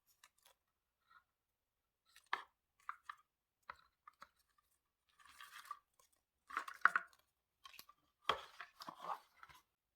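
Paper and stationery handled while decorating a diary: scattered crinkles, taps and rustles, with a longer rustle about five seconds in and a cluster of crackling near the end.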